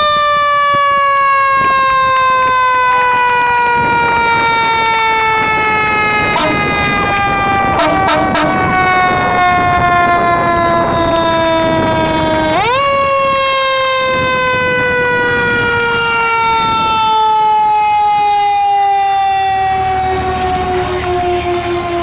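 Federal Q2B mechanical siren on a fire engine coasting slowly down in pitch after being wound up, then wound up sharply again about halfway through and coasting down once more. Short air horn blasts sound around a third of the way in, and a low rumble comes in near the end.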